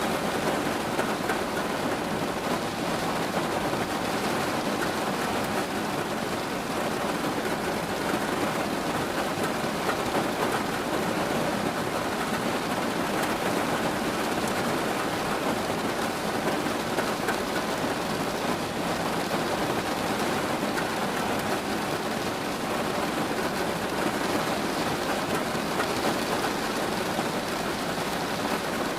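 Steady rain falling, an even hiss that holds level without pauses or separate claps.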